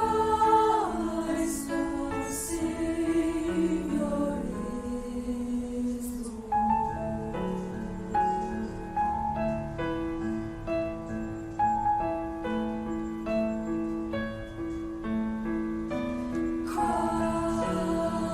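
A student choir singing with piano accompaniment. The sound thins to a quieter, more even passage about six seconds in, and the full choir comes back in near the end.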